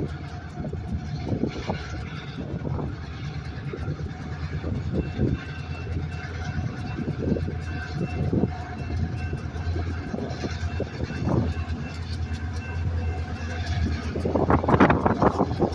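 Freight train on the move: a steady low diesel locomotive rumble with scattered knocks from the rolling cars. A louder run of clatter comes near the end.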